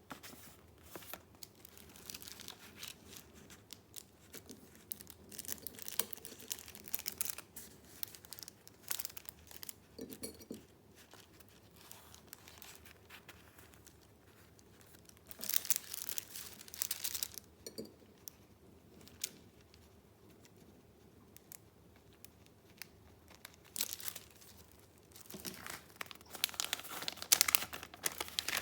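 Paper being handled: rustling and crinkling of sheets and papercraft pieces in irregular spells, loudest about halfway through and again near the end.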